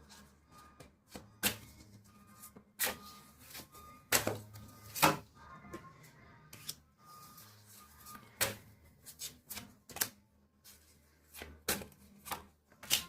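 Tarot cards being shuffled and laid out: an irregular string of sharp card snaps and taps, the loudest about five seconds in, over a faint steady hum.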